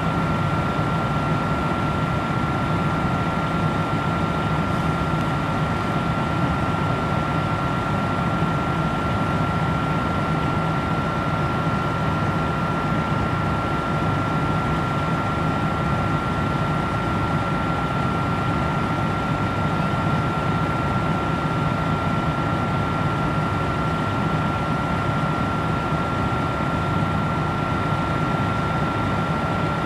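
Steady roar of natural gas burning as it jets from a ruptured buried gas line, with a thin high tone running through it.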